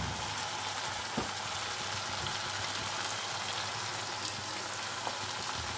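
Onion and tomato masala with red chili powder frying in hot oil in a nonstick pan, a steady sizzle with a couple of faint clicks from the silicone spatula stirring.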